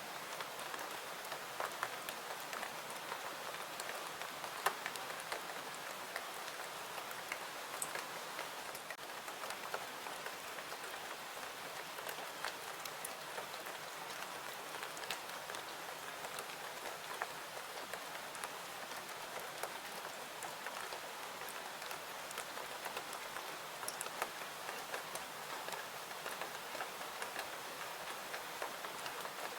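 Steady rain falling, with many small sharp ticks of drops scattered through it.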